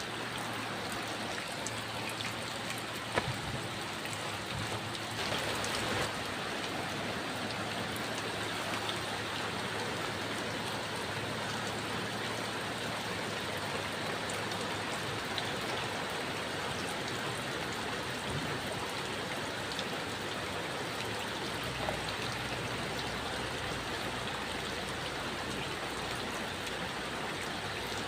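Steady heavy rain falling, with a single sharp tap about three seconds in.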